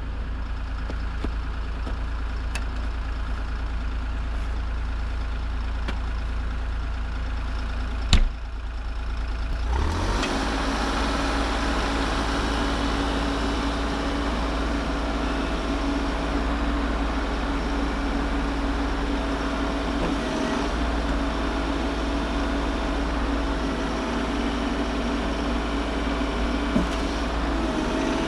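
Bobcat E50 compact excavator's diesel engine idling as it warms up after a cold start. A single sharp knock comes about eight seconds in, and about two seconds later the engine sound grows louder and fuller, with a steady hum.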